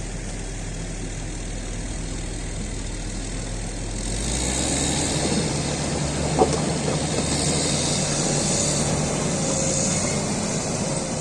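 Caterpillar 140GC motor grader's diesel engine running steadily at low revs, then picking up speed and getting louder about four seconds in. A single sharp knock comes a little over six seconds in.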